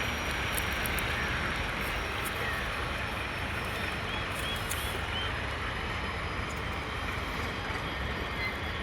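Steady, unchanging noise of a running vehicle, a low rumble with an even hiss over it.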